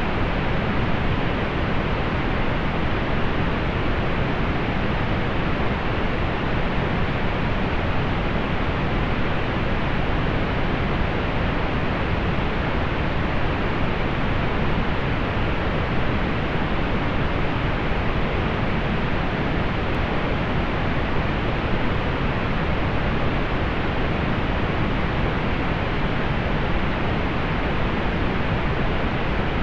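Steady pink noise: an even, unchanging rushing hiss with its highs rolled off, fuller toward the low end.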